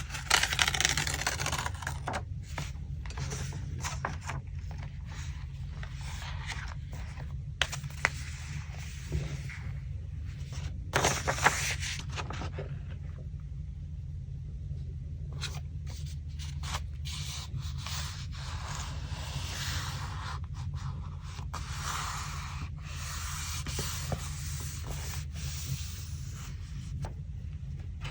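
Paper and scrapbooking materials being handled by hand: sheets scraping and rubbing on the work surface in several longer strokes, with a few sharp taps, over a steady low hum.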